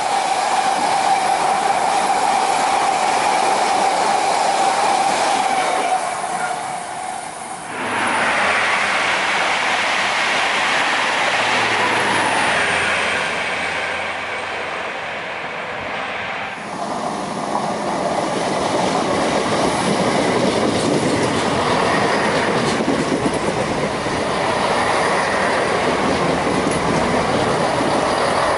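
A freight train's covered wagons rolling past at speed, with a steady high tone over the rumble. After a change about seven seconds in, more trains run through, and near the end a diesel multiple unit moves alongside the platform.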